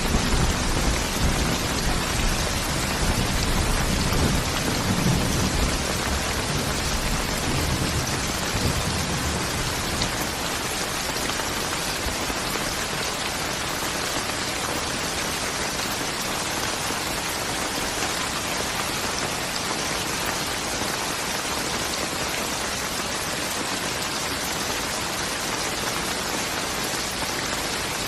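Steady heavy rain falling and pattering on surfaces, with a low rumble of thunder during the first ten seconds or so that fades away.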